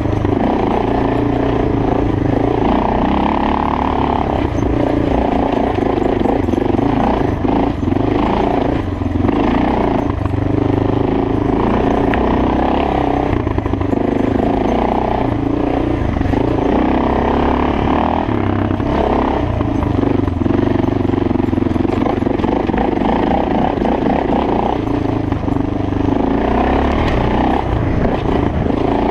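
Suzuki DR650's single-cylinder four-stroke engine running as the bike is ridden along a dirt trail, the engine note rising and falling every few seconds with the throttle.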